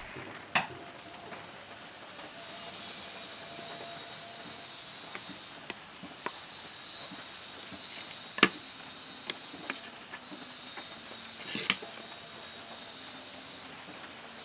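A steady hiss with a few sharp, isolated wooden clicks and knocks scattered through it, typical of wooden joint pieces being handled and tapped together. The loudest knock comes about eight and a half seconds in.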